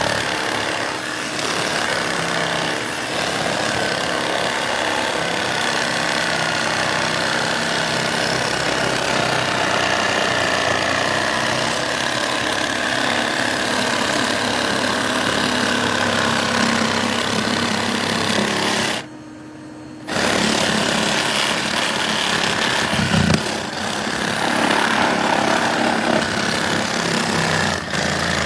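A small motor-driven machine running steadily and loudly, cutting out for about a second two-thirds of the way through and starting up again.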